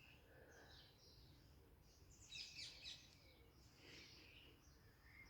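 Faint birdsong: several short bursts of high chirping, the busiest a little over two seconds in.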